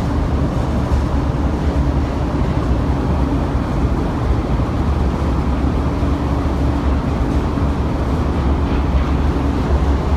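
Steady low drone of a ferry's onboard machinery heard from inside the ship, with a faint steady hum above the rumble.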